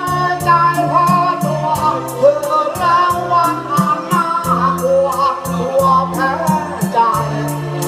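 A voice singing a melody with vibrato over backing music with a bass line and a steady beat.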